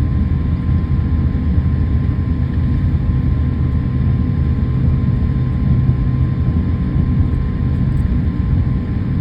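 Steady low rumble of a jet airliner heard inside the passenger cabin as it taxis on the ground after landing, with a faint steady hum over it.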